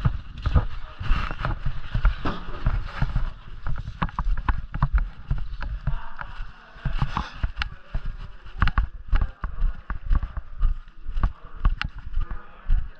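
Irregular knocks and low thumps, several a second, some sharp and clicking, over a faint rustling haze.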